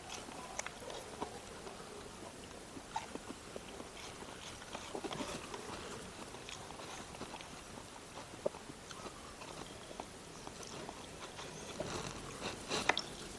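Close-miked eating sounds: a person chewing food, with scattered soft mouth clicks and smacks over a low hiss, a cluster of them near the end.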